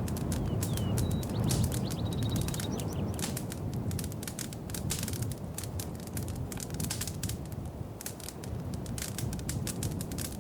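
Wood fire in a fireplace crackling, with a steady low rumble of the flames under dense irregular pops and snaps. A couple of faint high chirps sound in the first few seconds.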